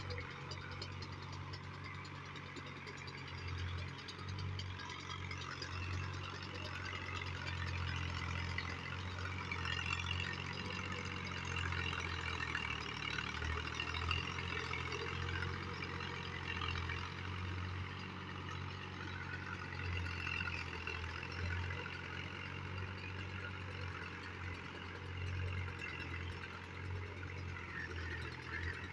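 Al-Ghazi tractor's diesel engine running steadily, a low hum that rises and falls slightly in level.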